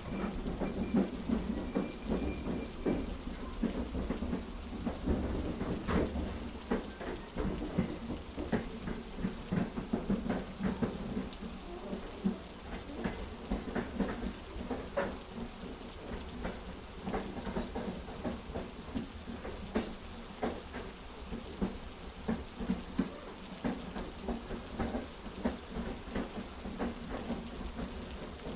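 Heavy rain layered with a train running on its tracks: a steady low rumble under a hiss of rain, with frequent irregular clicks and knocks.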